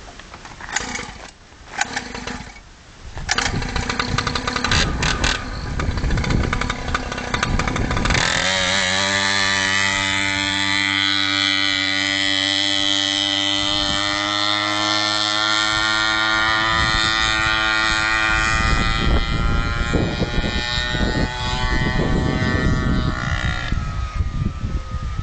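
Dirt bike engine: a few knocks, then the engine running unevenly from about three seconds in. It is revved up and held at steady high revs from about eight seconds in, and the pitch falls near the end.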